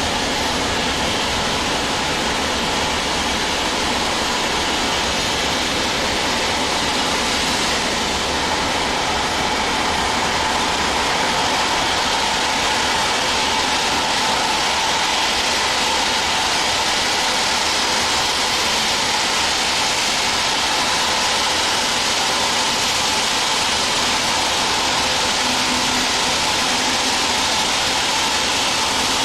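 Steady, unbroken rushing hiss of steam from 34027 Taw Valley, a rebuilt Bulleid West Country class steam locomotive, with no exhaust beats.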